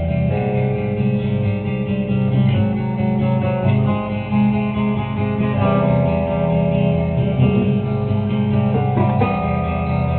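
Live rock band performance: guitars playing, with no vocals in this stretch.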